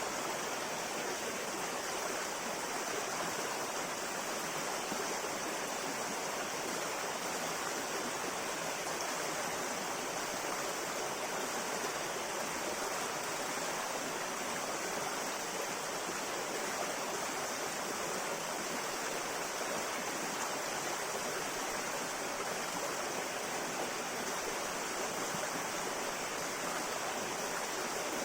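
Shallow river flowing steadily, an even rushing of water with no break or change.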